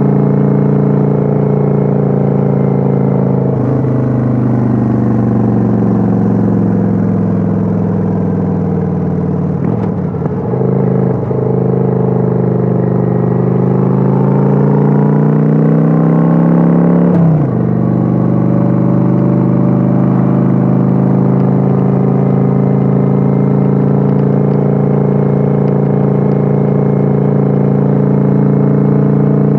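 Kawasaki Vulcan 900's V-twin engine heard on board while riding. It runs steadily, then falls in pitch as the throttle comes off, climbs again under acceleration, drops suddenly about halfway through as it shifts up, and settles into a steady cruise.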